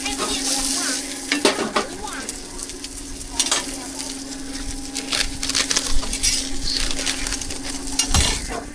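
Pancake batter and fillings sizzling on a hot street-food griddle, with a few sharp metal scrapes or knocks of a spatula. A steady low hum runs underneath.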